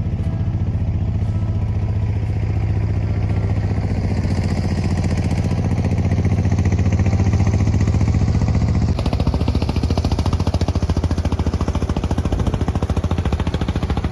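An engine running steadily with a rapid, even pulse, its sound changing about nine seconds in.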